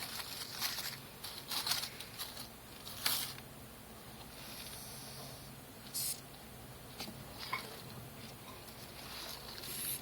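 Madagascar hissing cockroaches hissing in a series of short, sharp hisses with one longer, softer hiss in the middle. The hiss is air forced out through a pair of breathing spiracles, the alarm sound of a disturbed roach.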